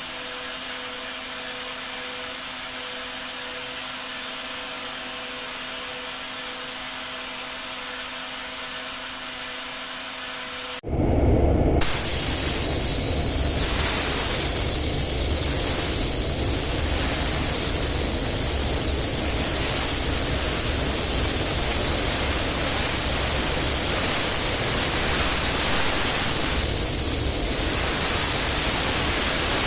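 Compressed-air paint spray gun hissing steadily. It cuts in abruptly about eleven seconds in, over a quieter steady hum with a few steady tones.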